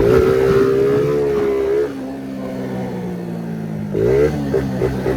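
Small 50cc motorcycle engine running at steady revs, easing off about two seconds in, then revving up again near the end and stuttering in quick chopped bursts, the sound of the fitted exhaust popper (estralador) cutting in.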